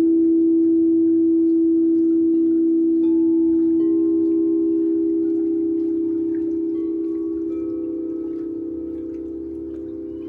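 Singing bowls ringing in long, pure, overlapping tones. Fresh, higher tones join about four seconds in and again near seven seconds, while the whole sound slowly fades.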